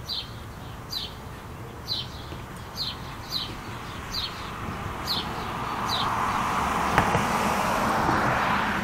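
A bird chirping over and over, one short high falling chirp about every second. A car's passing noise swells through the second half, with a single sharp click in the middle of it.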